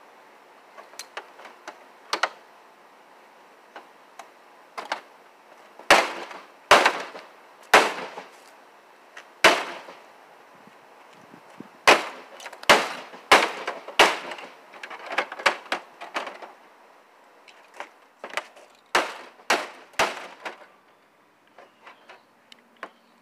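A flatscreen TV being torn apart for scrap: an irregular run of sharp cracks and snaps as its casing and parts are forced and broken, loudest in two clusters, thinning to a few faint ticks near the end.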